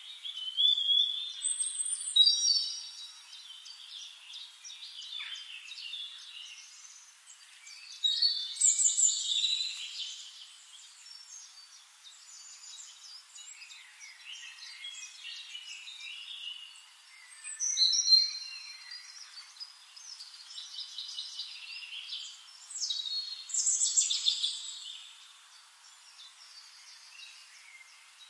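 Birds singing and chirping, with several loud bursts of song and softer twittering in between. The sound is thin, with nothing low in it.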